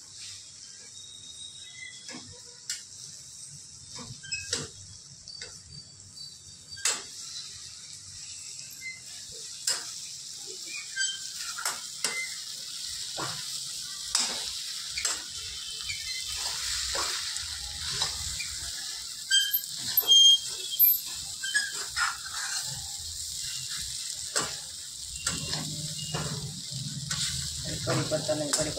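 Leftover roti pieces with tomato and onion sizzling in a nonstick pan while a metal spatula stirs them, scraping and clicking against the pan many times. A low pitched sound comes in near the end.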